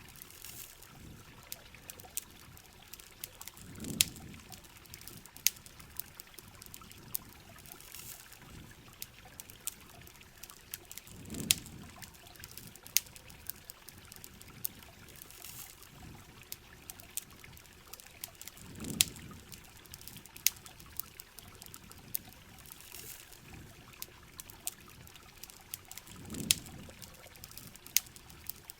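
Steady heavy rain, with the sharp pops and crackles of a campfire scattered throughout. A low swell comes up four times, about every seven and a half seconds.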